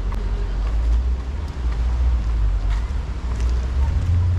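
City street ambience dominated by a low, uneven rumble of vehicle traffic, with a few faint ticks.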